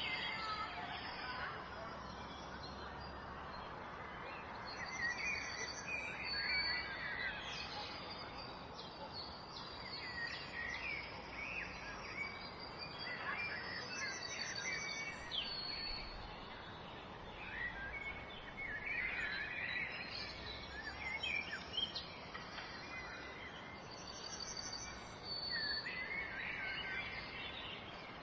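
Small birds chirping and calling over a steady background hiss, with clusters of quick chirps and short high repeated notes coming every few seconds.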